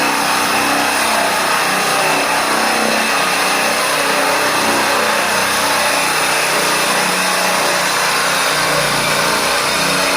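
Wood-Mizer bandsaw mill running steadily under load, its motor and band blade sawing through a log with a loud, even noise.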